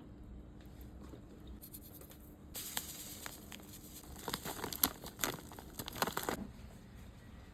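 Crinkling, tearing rustle full of quick small clicks, lasting about four seconds from about two and a half seconds in and stopping abruptly.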